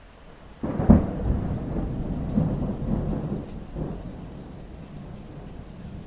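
A thunderclap breaks in suddenly about half a second in and rumbles away over the next few seconds, over steady rainfall.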